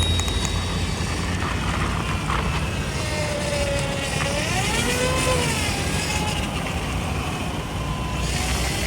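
PKTS 71-931M Vityaz-M low-floor tram running, heard on board: a steady rolling rumble with a whine that glides up in pitch about four to five seconds in and falls again near the end.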